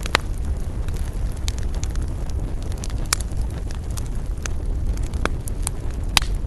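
Wood fire crackling in a fireplace: sharp pops and snaps every second or so over a steady low rumble, the loudest pop right at the start.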